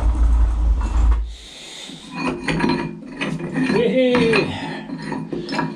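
Steel machine parts clinking and scraping as they are handled, a shaft being tried in a worn, newly re-turned bush, with a low thud-like rumble in the first second.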